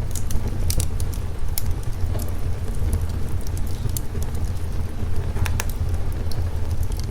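Fireplace crackling with scattered sharp pops over a steady low rumble from the layered thunderstorm and rain ambience.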